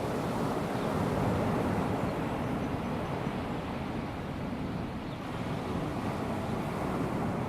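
Calm sea washing onto a sandy beach: a steady, low wash of small waves, easing slightly around the middle.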